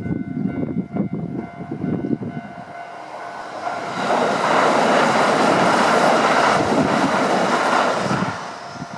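Kintetsu Shimakaze limited express, a series 50000 electric train, passing side-on over a steel girder bridge. A low uneven rumble builds into loud running and wheel noise about three seconds in, stays loud for about four seconds, then falls away near the end as the train clears the bridge.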